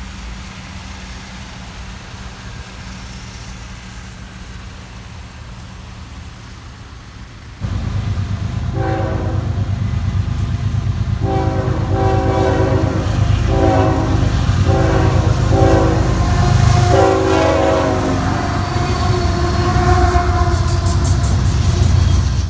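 Freight train's diesel locomotive passing close, its heavy engine rumble coming in suddenly about seven seconds in after a low steady hum. Over the rumble its multi-tone horn sounds a series of blasts, some long and some short.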